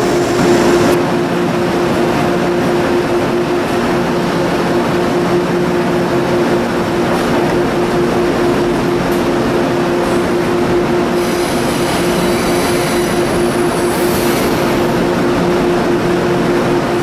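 A train running past with a steady rumble and a low, even hum throughout, and a faint high squeal of wheels from about eleven seconds in.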